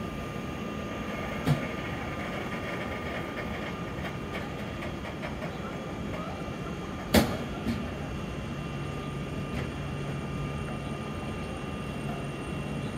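Intercity passenger coaches rolling slowly past on the rails, a steady running noise with a thin steady whine. There is a sharp clack about seven seconds in, and a few fainter knocks from the wheels over the track. A low hum comes in during the second half.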